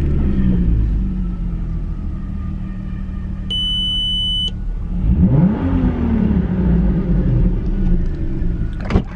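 A 2004 Volkswagen R32's 3.2 litre VR6 engine running, with one short rev about five seconds in that rises and falls back. A high electronic beep sounds for about a second partway through.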